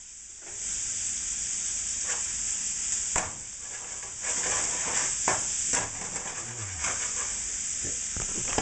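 Chicken, shrimp, onion, red pepper and mushroom sizzling in olive oil in a frying pan, starting about half a second in, with several short clicks of a utensil against the pan.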